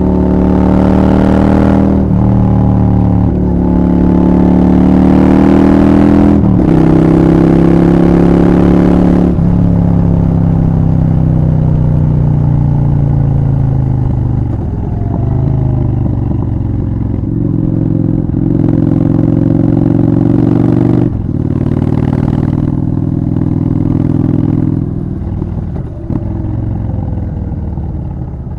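Honda Shadow 750 V-twin engine under way. It revs up and shifts up several times in the first nine seconds, the pitch climbing and then dropping at each change. It then slows with a falling note, holds a steadier pace, and eases off and grows quieter near the end.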